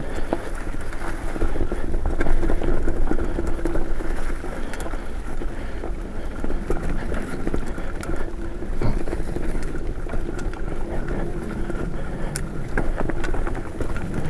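Mountain bike rolling along a dirt trail: tyres rumbling over the ground, with frequent small clicks and rattles from the bike, and wind on the microphone.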